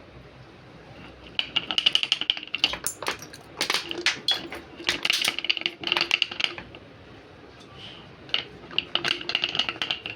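Rapid metallic clicking and rattling of hand tools on car parts, in four bursts of one to two seconds each, with a ringing metallic note through the bursts.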